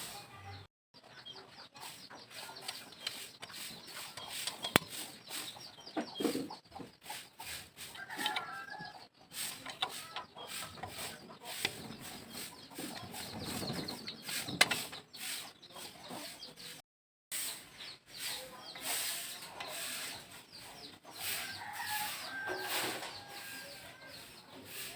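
Chickens clucking, with a rooster crowing, over a run of short scraping or rubbing strokes.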